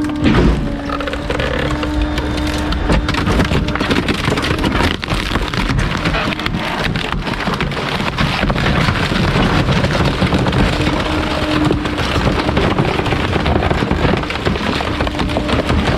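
Garbage truck compactor crushing a load of bulky waste: a dense, continuous crackling and snapping of material breaking, with the hydraulic hum coming and going.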